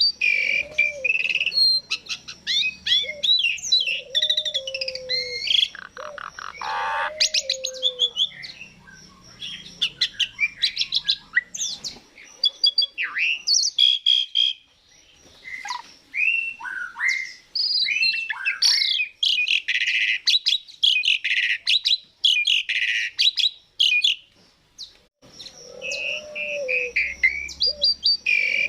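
Asian pied starling (jalak suren) singing a long, varied song of rising and falling whistles, chirps, buzzy notes and sharp clicks, with some low whistled notes mixed in. The song pauses briefly about halfway through.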